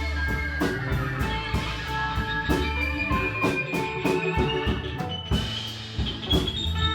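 Live rock band playing an instrumental passage: drum kit beating steadily under sustained electric guitar notes and bass.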